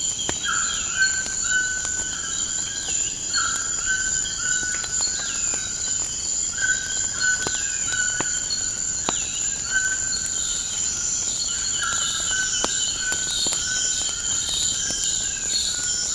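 Nature ambience with a steady high-pitched chorus of crickets. Short bird calls, falling in pitch, repeat about once a second, and sharp crackling pops from a wood fire come now and then.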